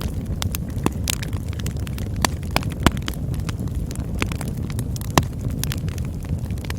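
Campfire burning with a steady low rumble and frequent sharp crackles and pops, a few louder snaps standing out.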